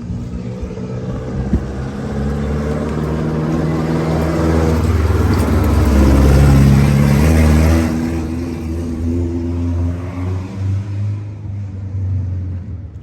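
Car engine under way, pulling harder and louder to a peak about halfway through, then easing off and running on more quietly.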